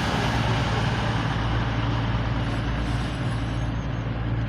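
Class 222 Meridian diesel multiple unit standing with its underfloor diesel engines running, giving a steady low hum with its overtones under an even rumble.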